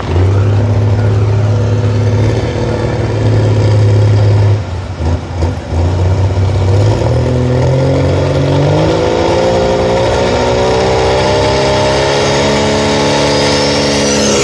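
Dodge Ram's Cummins inline-six turbo diesel running hard and steady. It drops briefly about five seconds in, then revs up over a couple of seconds and holds at high revs.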